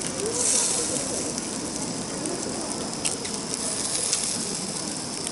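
Fire crackling with a steady hiss: a louder burst of hissing about half a second in, and a few sharp pops later on.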